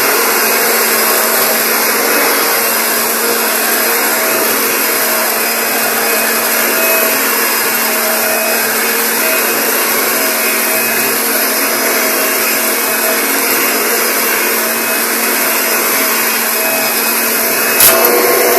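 Kirby upright vacuum cleaner running steadily over carpet, an even rushing noise over a low hum. A sharp click comes just before the end.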